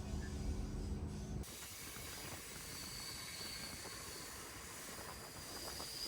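Steady high-pitched hiss with a faint thin whine above it. It starts abruptly about a second and a half in, replacing a lower, fuller background sound.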